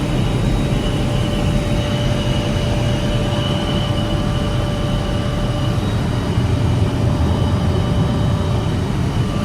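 Helicopter cabin noise in steady cruise flight: a dense, even rumble of rotor and engine with a few steady whining tones over it.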